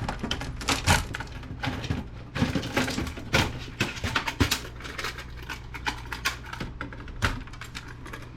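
Irregular clicks, knocks and rattles of a desktop computer's motherboard and metal case parts being handled, over a low steady hum.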